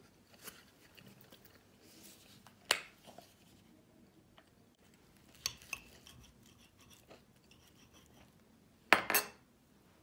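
Small hard objects being handled and set down: scattered light clicks and clinks, with a louder cluster of knocks about nine seconds in.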